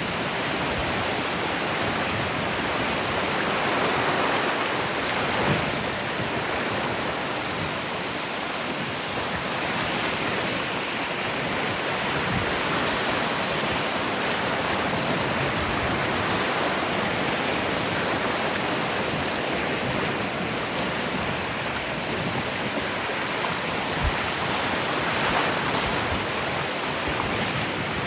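Ocean surf washing onto a beach: a steady rushing hiss that swells and eases gently a few times.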